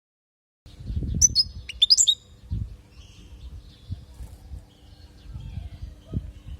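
European goldfinch singing: after a brief silence, a quick run of sharp high chirps about a second in, then softer twittering, over a low rumble and a faint steady hum.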